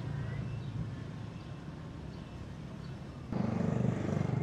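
Low, steady rumble of a running vehicle engine, which jumps suddenly louder a little over three seconds in.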